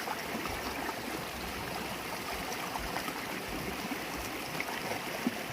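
River water flowing and babbling over stones, a steady rush with small splashing flecks.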